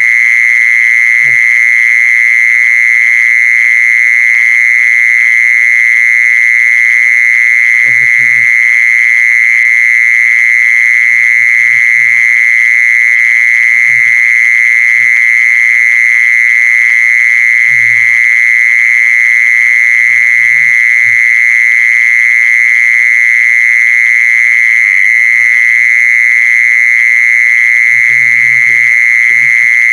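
An insect calling in one continuous, steady, high-pitched buzz that never breaks. A few faint, brief low sounds come and go beneath it.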